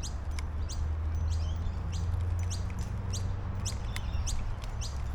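A bird chirping over and over, with short high chirps at about two a second, over a steady low rumble.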